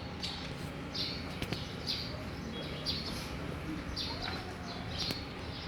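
Small birds chirping, short high calls repeating about once or twice a second over a faint low hum.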